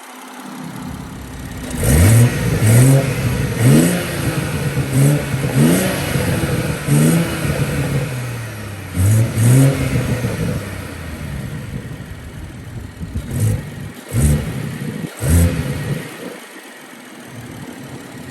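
BMW 340i's B58 turbocharged 3.0-litre inline-six, heard at the engine bay through a CTS Turbo cold air intake, blipped from idle in a quick series of short revs, each rising sharply and dropping back. There are about ten in the first half, then a few more after a short stretch of idle.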